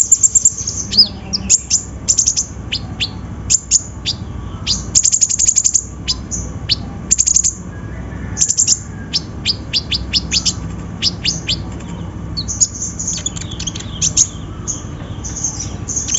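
Kolibri ninja (a sunbird) singing: a fast, high-pitched chatter of short downward-sweeping chirps and quick trills, coming in bursts with brief pauses.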